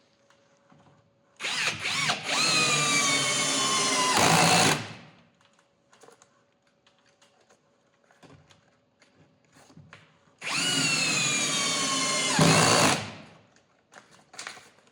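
Power drill driving lag screws into a wooden header, in two runs of about three seconds each. The motor's pitch falls through each run as the screw bites deeper.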